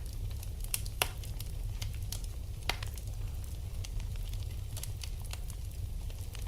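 Wood fire burning in a fireplace: irregular sharp crackles and pops over a steady low rumble, with the loudest pops about one second in and again near the three-second mark.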